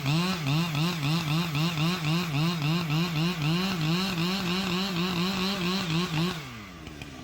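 Husqvarna chainsaw revved to high speed, its pitch wavering up and down about two and a half times a second, then dropping back to idle a little after six seconds in.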